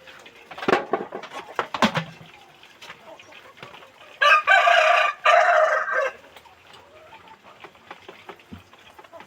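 A rooster crowing once, a loud two-part call of about two seconds starting about four seconds in, with hens clucking and a few sharp clicks in the first two seconds.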